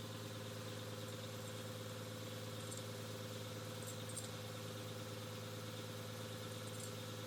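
A steady low hum with no change in pitch or level, and a few faint light clicks about three seconds in, about four seconds in and near the end.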